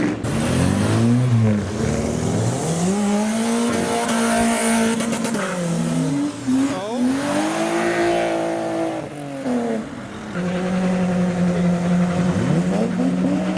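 A car engine revved up and held at high revs several times, dropping back between each rev, with one long steady hold near the end.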